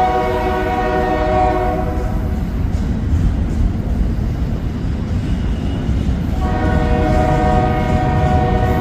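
Union Pacific GE AC4400CW locomotive's air horn blowing: a long blast that stops about two seconds in, then a second long blast starting about six and a half seconds in. Under it runs the steady low rumble of the moving train.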